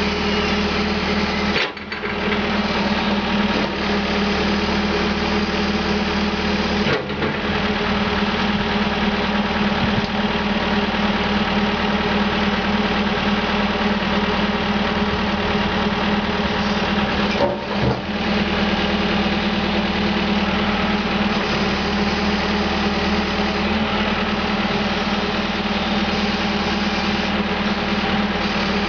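CAT 420E backhoe's diesel engine running steadily, with three brief dips in the sound.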